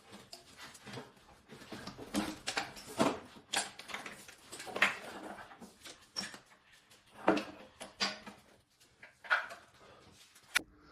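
Irregular knocks, clinks and scrapes of hand tools on metal, one or two a second, while gearbox bolts are worked loose under the car.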